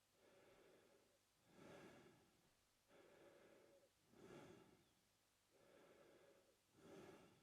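A man breathing slowly and steadily through his mouth: about three full breaths, each a longer, even breath followed by a shorter, stronger one.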